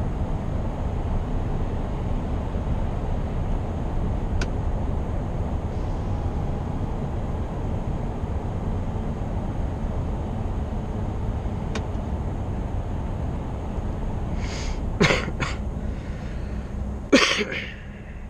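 Scania R520's V8 truck engine running on the road, a steady low drone with road noise. Near the end come two short, sharp hissing bursts, and after the second the engine sound drops off.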